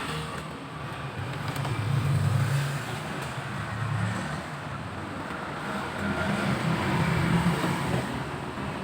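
A motor vehicle engine running with a low rumble, swelling louder twice and easing off again.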